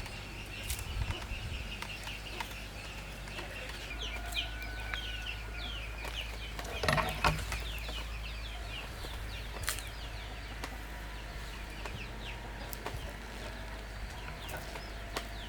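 Chickens clucking. A long run of quick, high downward chirps comes in after a few seconds, with one louder call near the middle.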